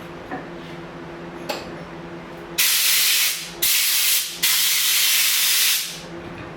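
Three bursts of hissing spray, about a second each and the last one longest, over a steady low hum.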